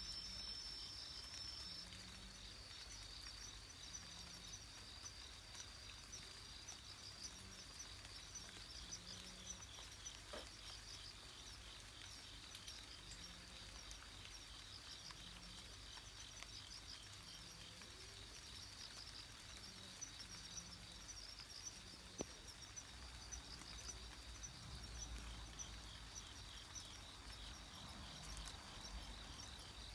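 Faint night ambience: insects trill steadily in a high, rapidly pulsing chorus. Under it, a faint low call repeats every second or two; this is the unidentified animal call that comes from a neighbouring garden at night.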